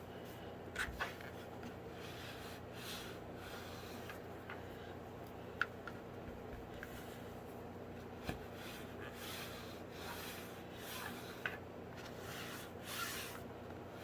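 Faint, intermittent rubbing strokes of glued fabric being pressed and smoothed down along the edge of a hardback book cover, with a few light taps.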